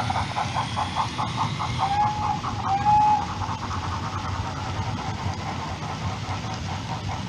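OO gauge model steam locomotive with a DCC sound decoder, chuffing with an even quick beat over the low rumble of the running train. It gives two short whistle toots about two and three seconds in.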